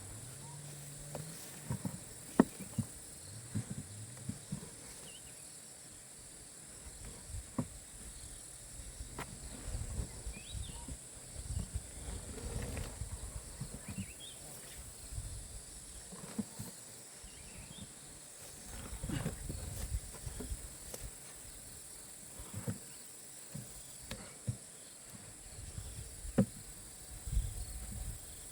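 Steady high-pitched drone of insects, with scattered knocks, clicks and rustling over it. The sharpest knock comes a couple of seconds in.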